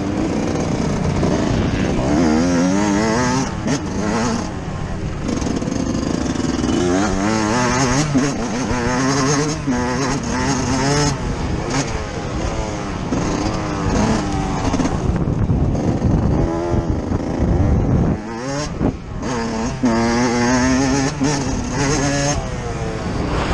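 Yamaha YZ125 single-cylinder two-stroke motocross engine heard on board, revving up and falling back again and again as the bike is ridden round the track. Its pitch climbs and drops repeatedly, easing off briefly twice in the second half.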